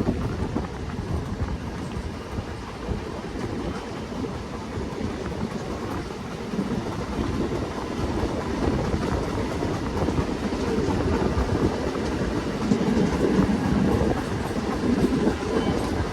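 A train running along the track, a steady rumble of wheels on rail that grows somewhat louder in the second half.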